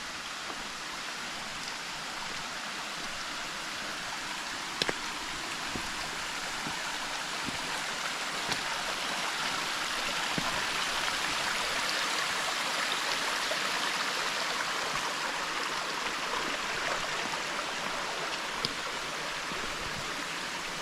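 Water of a creek cascade rushing steadily over the falls, swelling a little louder midway.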